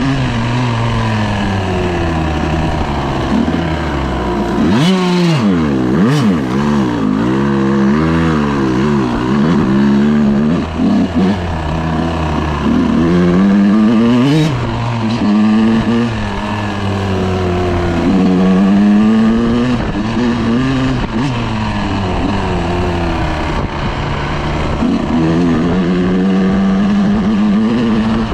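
Dirt bike engine running hard while riding, its pitch repeatedly climbing and dropping as it revs up and shifts gears.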